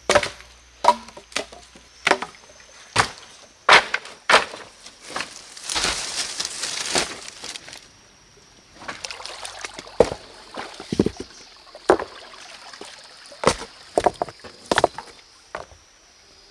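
Irregular knocks and clatters, like wood being handled and struck, with a rush of sloshing water about six seconds in. A faint steady high whine runs underneath.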